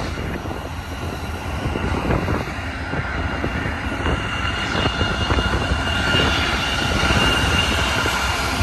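BNSF double-stack container freight train rolling past with a steady low rumble, and a high steady squeal that grows louder over the last few seconds.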